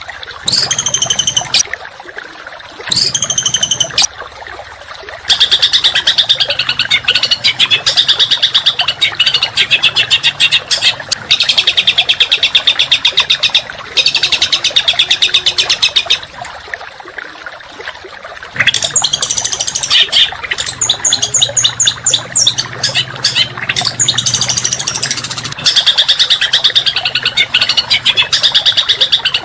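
Small songbird singing in fast, harsh rapid-fire bouts of densely packed repeated notes. The bouts break off briefly several times and resume.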